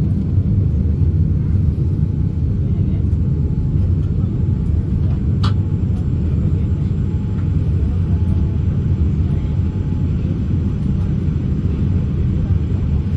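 Steady low rumble inside the cabin of a Boeing 787-8 during engine start: the engines and cabin air running evenly, with no rise or fall. A single faint click about five seconds in.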